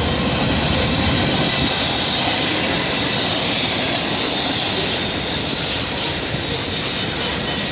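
CP freight train's cars rolling past: a steady rumble and rattle of steel wheels on rail.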